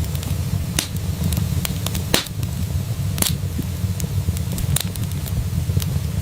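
Wood fire crackling in a fireplace: a steady low rumble of the flames with scattered sharp pops, the loudest about two and three seconds in.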